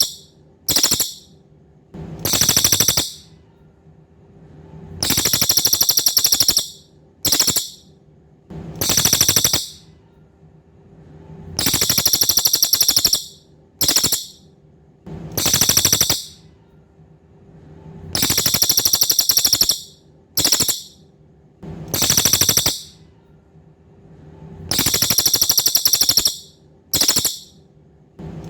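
Cililin (racket-tailed treepie) calling: high, rapid rattling trills in sets of three, a long one, a short one and a medium one, with the set repeating about every seven seconds as a looped song-tutor recording.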